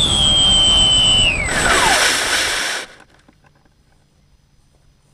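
Twin motors of a radio-controlled cargo plane whining steadily over wind rumble, then falling sharply in pitch as they spool down about a second and a half in, with a burst of loud rushing noise; everything cuts off abruptly about three seconds in, leaving only faint sounds.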